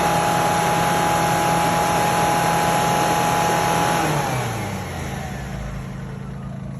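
Car engine held at high revs, then the revs fall back toward idle about four seconds in, while it runs during a hydrogen decarbonising treatment.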